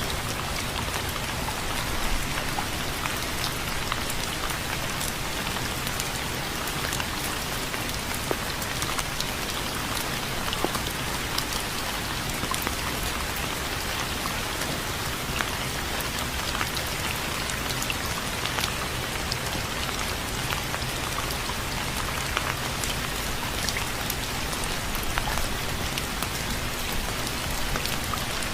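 Steady rain falling, with many separate drops ticking on a surface over a dense, even hiss.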